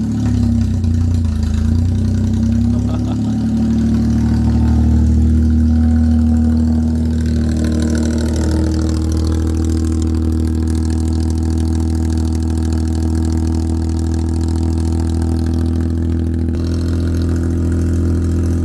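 Daihatsu Hijet kei truck engine idling just after a cold start, loud through a custom intake and a motorcycle muffler. The idle swells a little at first, eases down about seven seconds in, then holds steady.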